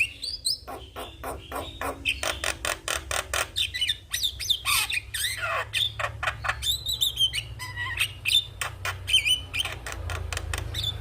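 Javan myna singing a dense, rapid run of sharp clicking notes, harsh squawks and a few sweeping whistles, with a steady low hum underneath.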